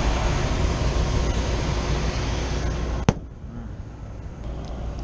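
Steady running noise of a commercial rooftop air-conditioning unit. A sharp click about three seconds in, after which it is noticeably quieter.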